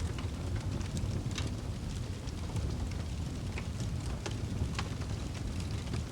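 Fire burning in a fireplace: a steady low rumble of flames with scattered sharp crackles and pops, one or two a second.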